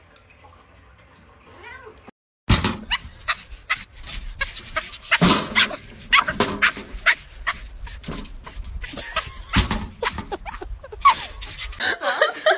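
A cat meowing, among many irregular sharp knocks and clatter.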